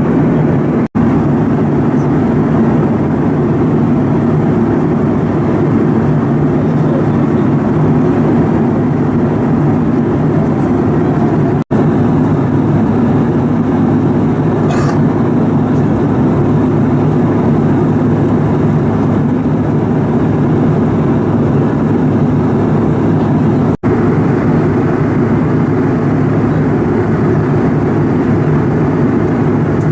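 Steady drone of airliner cabin noise in flight: engine and airflow noise heard from inside the cabin, unchanging in level. It drops out for an instant three times.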